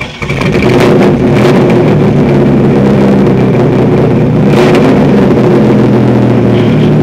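1994 Chevrolet Camaro's 3.4-litre V6 running at a steady idle, heard through its exhaust, with two brief clicks.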